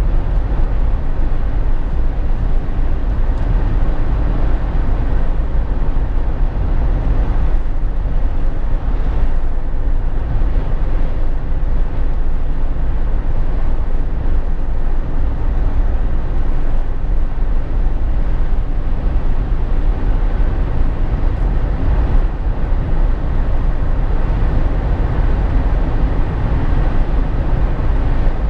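Steady low rumble of tyre, road and wind noise inside the cabin of a Jeep Wrangler JK while it is driven on the road.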